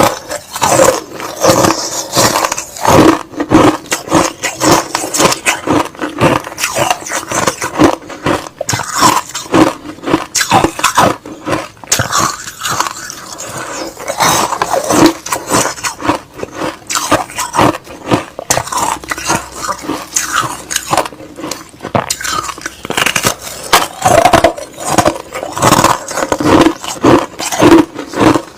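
Crushed ice and slush being bitten and chewed close to the microphone, giving a dense, irregular run of crunches several times a second.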